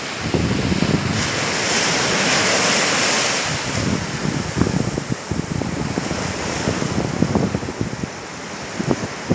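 Sea waves washing onto a sandy beach, one wave surging in with a rising hiss about a second in and ebbing a couple of seconds later. Wind buffets the microphone throughout.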